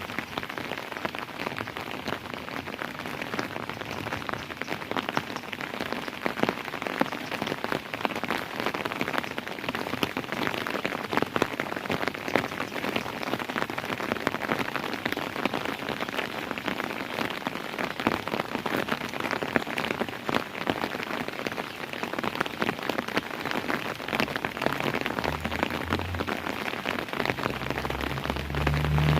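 Steady rain falling on a surface, a dense patter of many drops. A low rumble comes in near the end.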